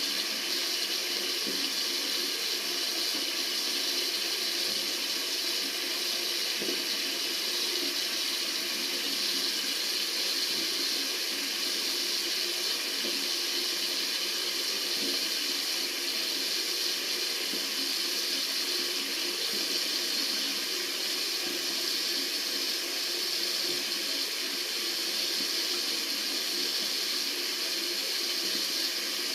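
Tap water running steadily from a faucet into a sink, a constant even splashing hiss.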